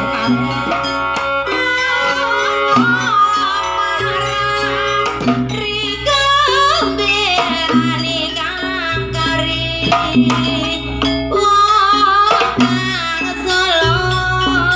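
Live Javanese jaranan music: hand drums playing a busy rhythm over held low notes, with a wavering melody line that bends up and down.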